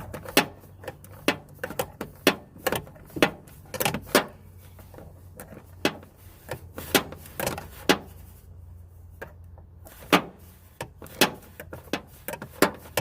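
Hand ratchet clicking in short strokes while tightening the blower motor's mounting bolts: sharp clicks at uneven intervals, with a few pauses, over a low steady hum.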